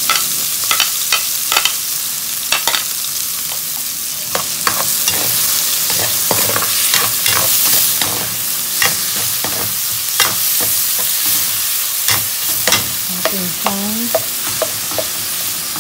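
Tomatoes and sliced red onions sizzling in hot oil in a wok, with a metal spatula scraping and clicking against the pan as they are stirred.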